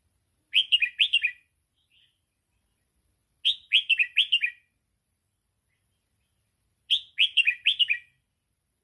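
Red-whiskered bulbul singing the 'double' (sai ble) song style: three short phrases of quick falling whistled notes, about three seconds apart.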